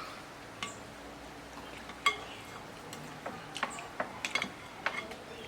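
Cutlery clinking against a plate or bowl while eating: scattered sharp clicks, the loudest about two seconds in and a quick run of them around four seconds.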